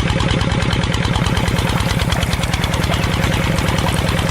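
Tractor engine idling steadily with a fast, even chug.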